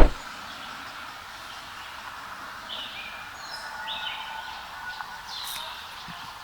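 A single sharp thump at the very start, then a few short bird chirps over a steady outdoor hiss, beginning about three seconds in.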